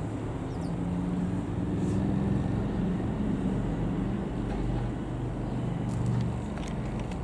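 Piper PA-28-181 Archer's four-cylinder piston engine and propeller droning steadily as the light aircraft flies past, its pitch drifting slightly.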